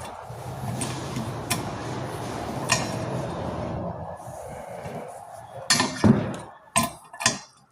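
Metal tools working on a rust-seized Volkswagen exhaust stud: a steady rushing noise for about five seconds, then four sharp metallic clanks in quick succession near the end.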